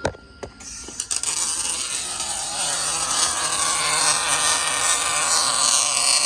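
Electric welder's arc striking with a few sharp clicks, then, about a second in, settling into a steady crackling hiss as a bead is laid.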